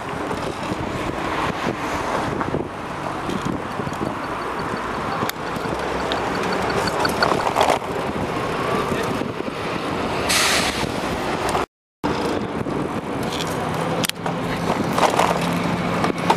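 City street traffic and wind rushing past a fast-moving bicycle, with a short hiss about ten seconds in, like a bus's air brake. The sound cuts out for a moment a little later.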